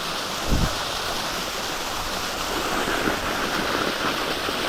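Steady rush of a waterfall's falling water, with a single low thump about half a second in.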